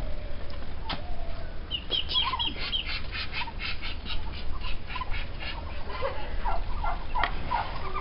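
Birds calling: a quick run of high, repeated chirps for a few seconds, then a few lower calls.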